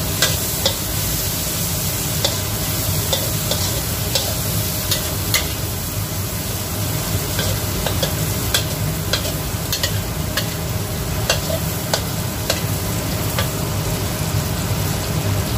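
Ground spice paste and dried shrimp sizzling in hot oil in a pan while being fried until fragrant, with a spatula scraping and tapping the pan in irregular strokes as it is stirred.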